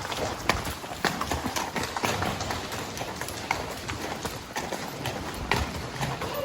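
Hoofbeats of a spotted saddle horse gelding, a steady clip-clop with about two sharp hoof strikes a second.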